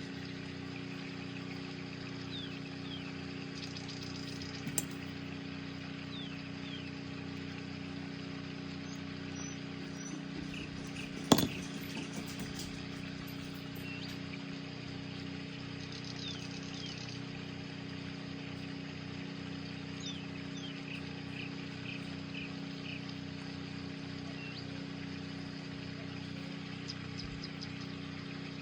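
Steady low electrical hum of room background, with a faint tick about five seconds in and one sharp click about eleven seconds in, typical of small nail tools or a polish bottle being handled.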